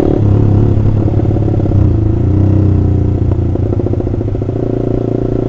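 Honda CBR150R's single-cylinder engine running through a loud Austin Racing aftermarket racing exhaust as the bike is ridden, the engine note shifting slightly in pitch about two seconds in.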